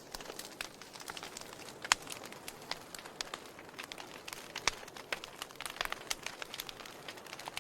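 Wood fire crackling in a fireplace: irregular sharp pops and snaps over a soft hiss, with a louder pop about two seconds in and another just before five seconds.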